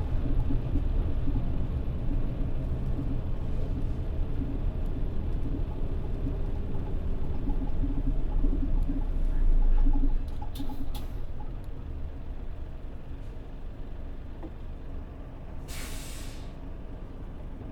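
Mitsubishi Fuso Aero Star city bus (PJ-MP35JM) running, its engine and road noise easing off about ten seconds in as it slows. About sixteen seconds in comes a short hiss of released air from the air brakes.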